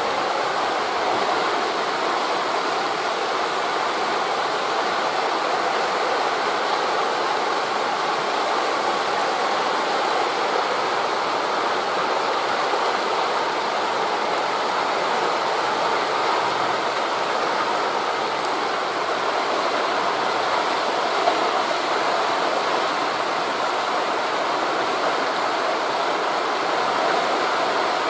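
Steady rushing of wind through forest leaves blended with distant sea surf, an even hiss at constant level with no distinct wave breaks standing out.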